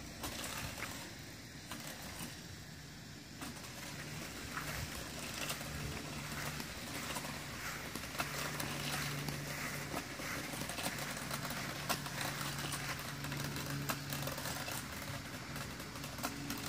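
A modded Razor electric kids' dirt bike running, its motor giving a steady low hum that comes in a few seconds in and holds with small dips.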